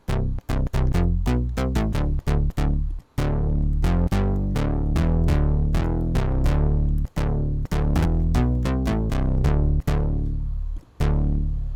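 Pulse-width-modulated synth patch in Sylenth1, two PWM oscillators an octave apart through a key-tracked low-pass filter, played as a run of short, snappy notes, then longer held bass-heavy notes, with short notes again near the end.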